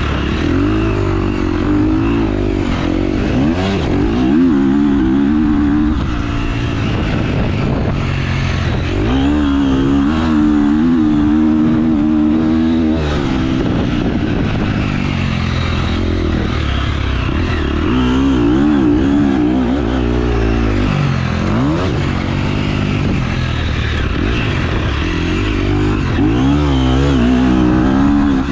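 Motocross dirt bike engine revving hard and easing off again and again, its pitch climbing and dropping as the rider accelerates, shifts and slows.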